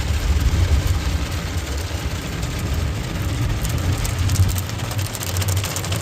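Automatic car wash heard from inside the van: water spray hissing and pattering on the body over a steady low rumble from the wash machinery and idling engine.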